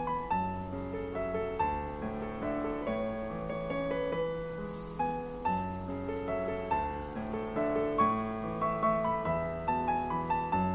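Background piano music, a gentle tune of held notes and chords at a steady pace.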